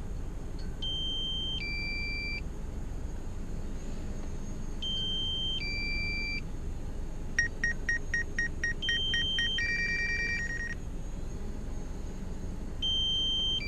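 Electronic alert beeps from a drone's remote controller during landing in strong wind: several short two-note tone patterns, a quick run of about nine beeps around the middle, then a longer held tone. A steady low wind rumble runs underneath.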